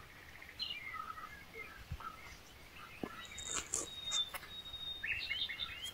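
Faint chirping of small birds: scattered short high calls, one held whistle in the middle and a quick run of chirps near the end, with a few light clicks.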